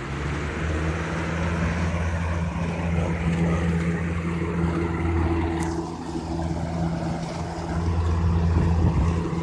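Lasko model 3733 box fan with a Marco motor, running on high: a steady rush of air from the blades over a low electric motor hum, building up in the first second as the blades come up to speed.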